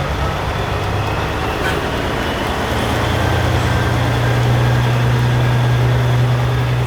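Diesel engine of a Peterbilt semi truck running with a steady low drone, which grows louder about two and a half seconds in as the truck comes closer.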